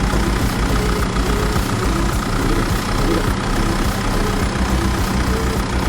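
An engine idling with a steady low throb.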